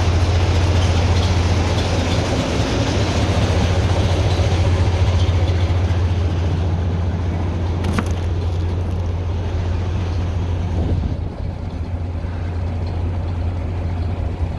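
The YaMZ-236 V6 diesel engine of a TU6A narrow-gauge locomotive idles steadily as it warms up after a cold start, while the air system is pumped up. A single sharp click comes about eight seconds in.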